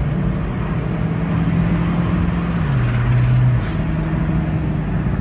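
2007 Honda Civic's 1.8-litre four-cylinder engine running as the car drives off, with road and tyre noise. It holds a steady hum whose pitch drops a step about halfway through and climbs back near the end.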